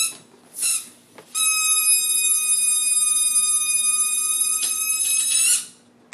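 Balloon helicopter toy whistling as the air escapes from its balloon and drives the rotor: one steady high whistle of about four seconds that rises a little in pitch at the end and then cuts off. Two short noisy bursts come just before it.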